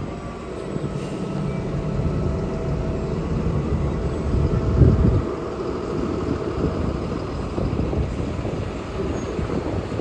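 Street traffic with a heavy vehicle's engine running close by, and a loud swell about five seconds in as a vehicle passes.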